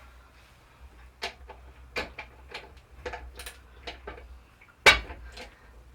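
Socket wrench working on the nut of a ceramic tap cartridge: irregular metal clicks and clinks as the socket is fitted and turned, with one louder clack about five seconds in.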